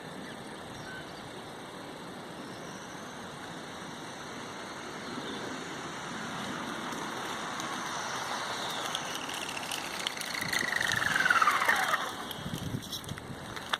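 Electric RC truck on a 3S pack running at speed: tyre and drivetrain noise growing louder as it approaches, with the motor's whine falling steeply in pitch as it goes past, followed by a few short clicks near the end.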